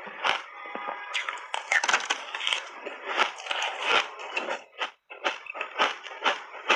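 Close-up chewing of shaved ice mixed with milk powder: crisp, repeated crunches, densest about a second in, then separate bites about two a second.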